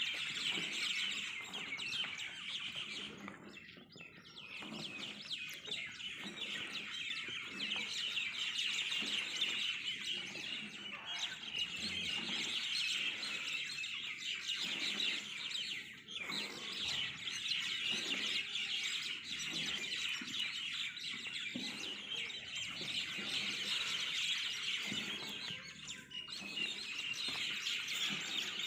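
A dense chorus of many small birds chirping continuously, with brief lulls about four and sixteen seconds in.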